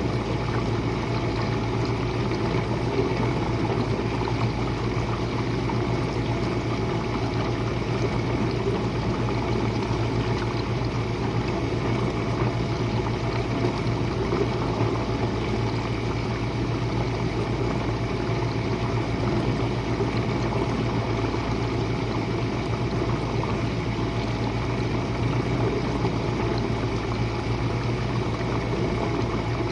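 Jenn-Air dishwasher running its Quick Wash cycle: a steady hum from the wash pump motor with water spraying and splashing inside the tub.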